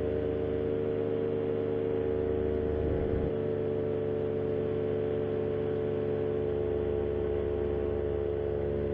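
Paramotor engine and propeller running at a steady cruise throttle in flight: a constant, even drone.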